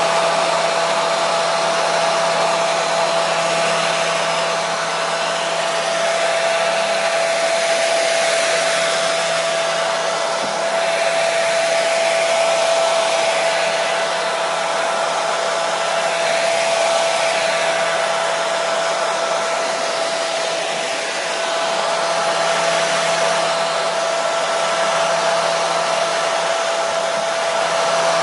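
Hair dryer running steadily: a continuous blowing rush with a steady whining hum through it, unchanging apart from slight swells in loudness.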